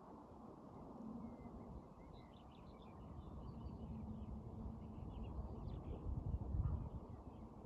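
Small birds chirping faintly and irregularly over a steady low rumble, which swells briefly near the end.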